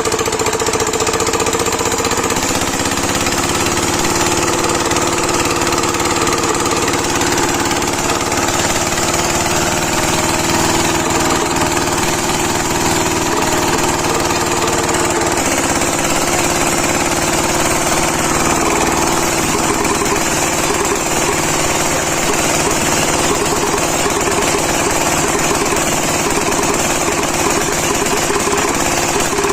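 7HP single-cylinder diesel engine of a water pump set running steadily with a rapid knocking beat, its tone shifting a few times.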